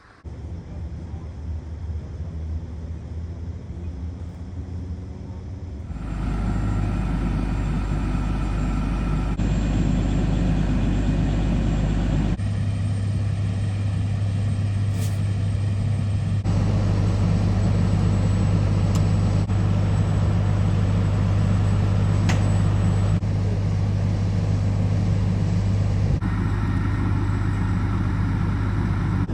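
A steady low mechanical hum with a strong low drone. Its character changes abruptly several times, as one stretch of footage gives way to another.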